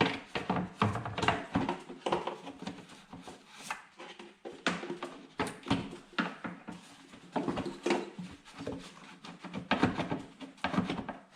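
Irregular knocks, clicks and rattles of the plastic air box and intake parts being handled and fitted back in the engine bay.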